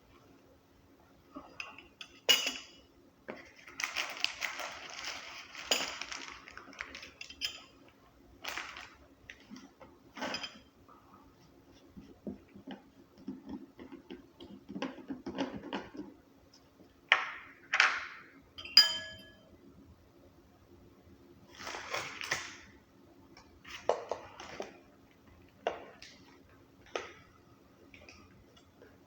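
Irregular clinks and scrapes of a utensil against a container and dish while kimchi is spooned onto a sandwich, with one short ringing ping a little past the middle.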